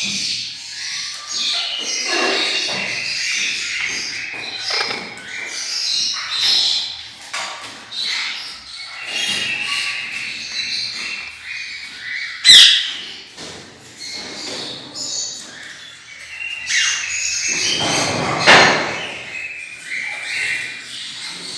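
A flock of pet parrots, lovebirds among them, chirping and squawking continuously in short overlapping calls. About halfway through comes one sharp, loud click, and a duller noisy knock follows a few seconds before the end.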